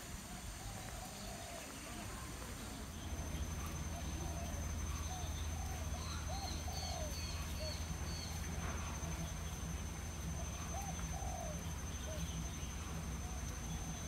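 Birds calling: a scatter of short, arching mid-pitched notes, with a few quick high chirps about six seconds in. A steady low rumble comes in about three seconds in.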